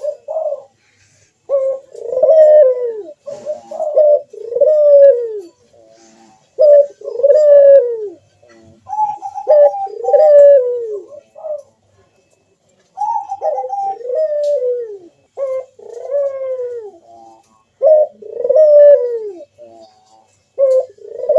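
Barbary dove (puter) cooing repeatedly: a series of short coos, each falling in pitch, in phrases about a second apart, now and then opening with a higher held note.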